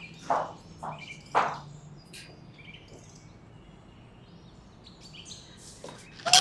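Faint bird chirps in the background, with three short noises in the first second and a half and a sharp click just before the end.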